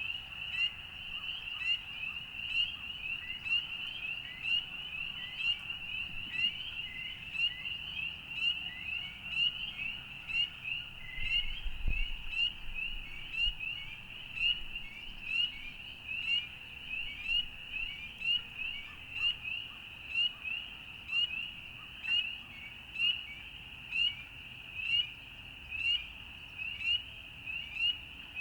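A chorus of frogs calling: many short, high, rising peeps overlapping, with a loud call standing out about once a second.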